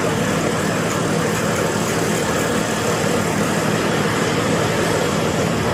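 A motor vehicle's engine idling steadily, with street noise around it.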